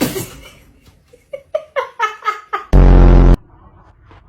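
Edited-in sound effect: a quick run of about six short rising notes, then a loud harsh buzz lasting about half a second.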